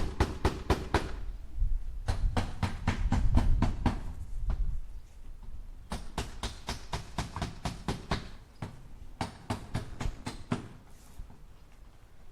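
Hammer tapping nails into wood in quick, even runs of about five strikes a second, with short pauses between runs.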